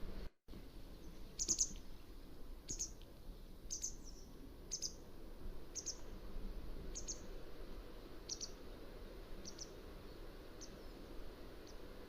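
Mountain wagtail calling: a series of about ten short, high call notes roughly one a second, growing fainter toward the end, over a steady low background hiss. There is a brief dropout to silence just after the start.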